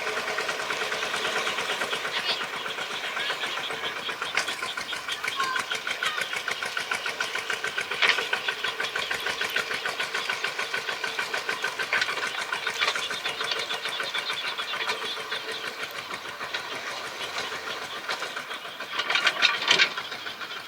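Tractor engine running steadily with a rapid, even knocking chug, with a few louder sharp bursts, the loudest cluster near the end.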